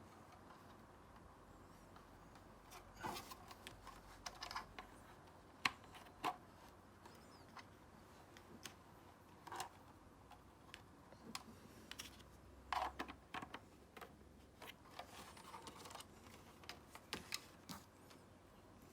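Faint, irregular small clicks and brief rustles of hands handling a small plastic object, with quiet gaps between them.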